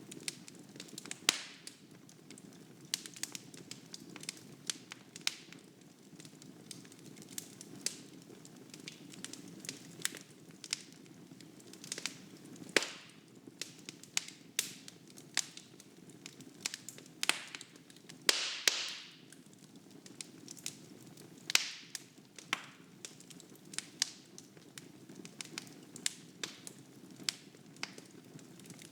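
Wood fire in a fireplace crackling, with irregular sharp pops and snaps over a soft steady roar of the flames. About eighteen seconds in, a longer hiss lasts under a second.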